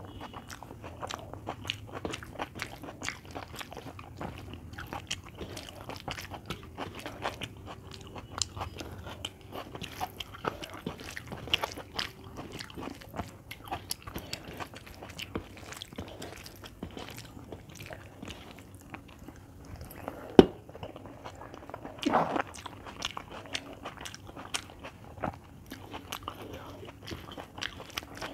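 Close-miked eating: chewing and crunching mouthfuls of rice and vegetables, with many small wet clicks and crackles. One sharp click about twenty seconds in and a louder burst a couple of seconds after.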